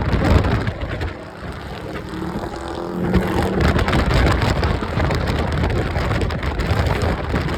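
Car engine running with road and wind noise, its engine note rising in pitch about three seconds in.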